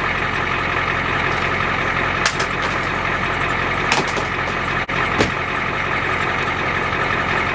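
Truck engine idling steadily while it warms up on a cold morning. A few sharp clicks sound about two, four and five seconds in.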